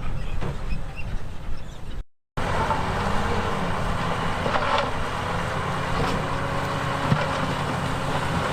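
Heavy diesel earthmoving machinery running steadily, with a few short metallic knocks; the sound drops out for a moment about two seconds in.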